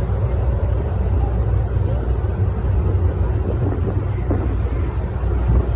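Steady low rumble of wind on the microphone and road noise from riding an electric rental scooter.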